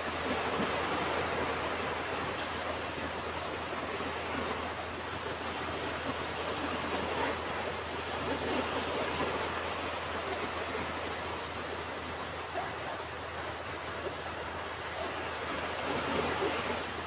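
Ocean surf washing onto a beach: a continuous rush of breaking waves that swells and eases a little every several seconds.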